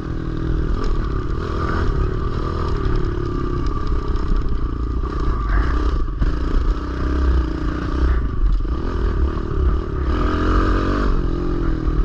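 Kawasaki KLX110L pit bike's small single-cylinder four-stroke engine running while being ridden, its pitch rising and falling with the throttle.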